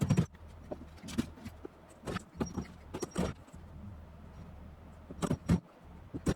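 Several separate knocks and clatters, about a second apart, with a pair close together near the end, over a low steady hum.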